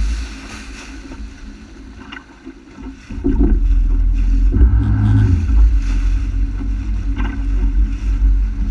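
Honda AquaTrax F-12X turbocharged jet ski under way: engine, hull and water noise, with wind buffeting the microphone. About three seconds in it jumps sharply louder into a steady low rumble.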